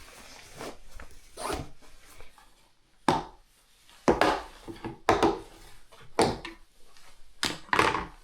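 A series of short, sharp scraping or rasping strokes, roughly one a second, the loudest in the second half.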